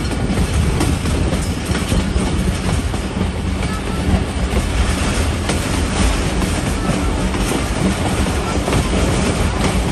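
Passenger train running along the line: a steady rumble and rattle of the carriages and wheels on the track, with a few clicks over the rails.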